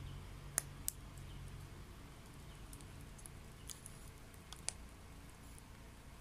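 Wet firewood burning in a homemade secondary-combustion stove: a few sharp crackling pops, two close together about half a second in and three more near the middle, over a low steady rumble of the flames.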